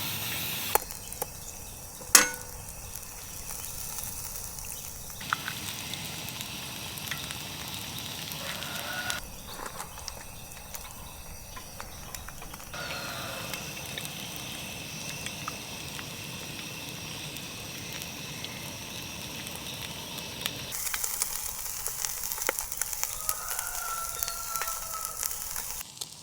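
Broccoli and egg frying in oil in a pan, sizzling steadily with small crackles. There is a single sharp click about two seconds in.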